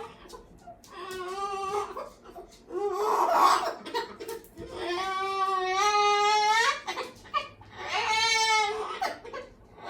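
A cockatoo giving long, wavering, crying-like wails, about four drawn-out calls, with a harsher, noisier squawk about three seconds in.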